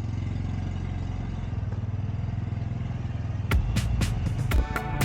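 Motorcycle engine running steadily with an even low pulse. About three and a half seconds in, background music with sharp percussive hits comes in over it.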